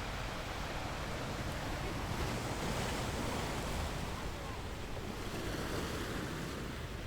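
Sea waves breaking and washing on a shore, a continuous surf noise that swells a little in the middle.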